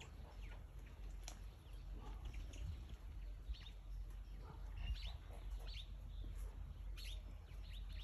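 Small birds chirping in short, high, downward-sliding calls, scattered irregularly and thickest in the middle and second half, over a steady low rumble.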